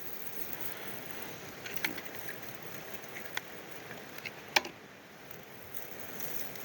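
Campfire burning, with a few sharp crackles and pops over a steady hiss; the loudest pop comes a little past halfway.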